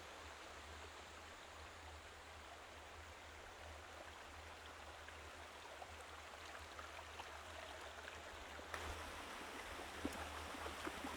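Faint, steady rush of a forest stream, with a low rumble underneath.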